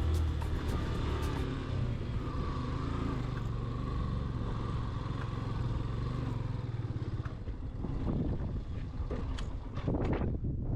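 Motorcycle engine running steadily while riding, its low note turning uneven about seven seconds in, with scattered knocks toward the end.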